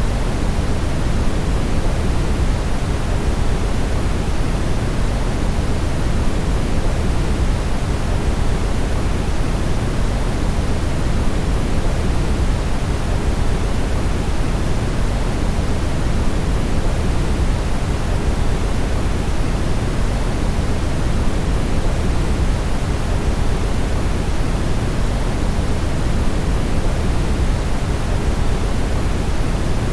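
Brown noise: a steady, even rushing hiss weighted heavily toward the low end.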